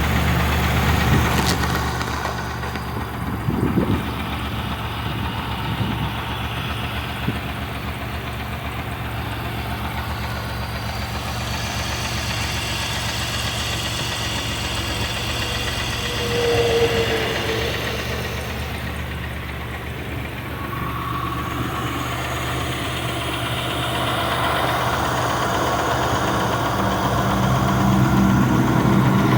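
Car engine running with piston slap, a fast, steady knocking over the engine's note, which gets louder near the end.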